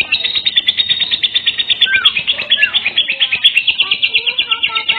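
Lovebird singing a long, rapid chattering trill of even, high chirps at about ten a second, with a few short sliding whistle notes mixed in.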